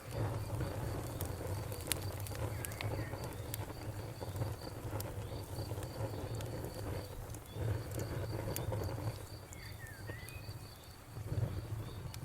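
Wood fire crackling, with sharp pops scattered over a low, steady rumble of the flames. A thin high chirp repeats evenly throughout, and a couple of short sliding chirps come about a quarter of the way in and again near the end.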